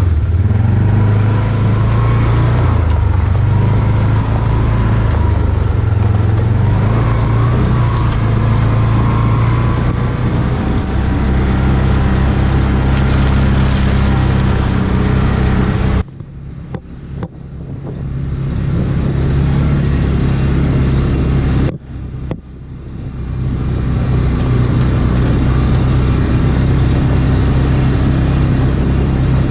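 Engine of a Polaris off-road vehicle running steadily under way. The throttle drops off suddenly twice, about halfway through and again a few seconds later, and the engine builds back up each time.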